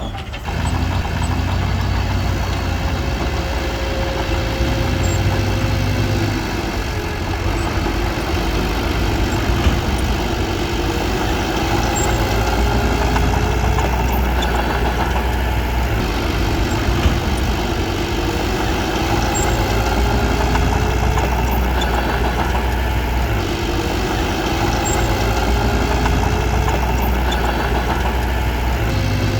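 Bulldozer's diesel engine running steadily with a low drone, dipping slightly about six seconds in.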